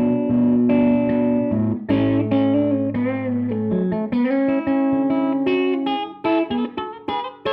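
Electric guitar played through a Tone King Gremlin tube amp on its rhythm channel: held chords, a bent note about three seconds in, then quicker picked notes near the end.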